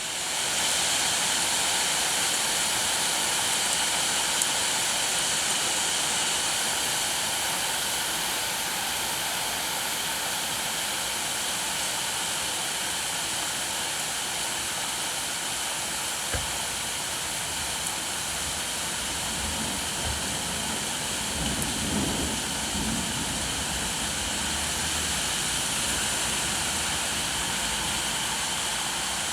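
Steady rainfall, an even dense hiss that gets a little louder just after the start. About two-thirds of the way through, a brief low rumble swells and fades.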